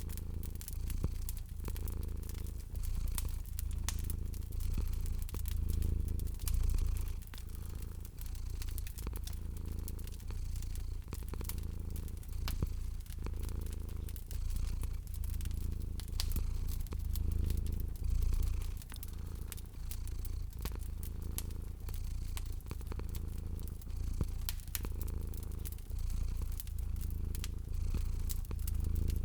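Cat purring steadily in a low, pulsing rumble, mixed with the frequent sharp pops and crackles of a wood fire.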